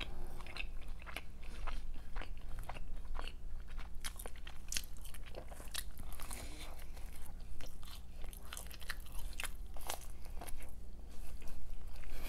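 Close-miked eating: a person biting and chewing pizza, with many short, irregular crunchy crackles and mouth clicks.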